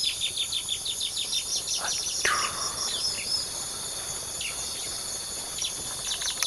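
Bar-winged prinia (ciblek) calling: a rapid run of short high chirps, about seven a second, then scattered single notes, over a steady high insect drone.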